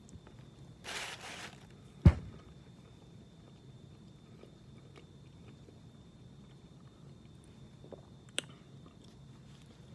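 A man chewing a bite of microwaved chicken burrito whose tortilla shell has baked hard, quietly and with a little crunch. A single sharp knock about two seconds in is the loudest sound, and a smaller click comes near the end.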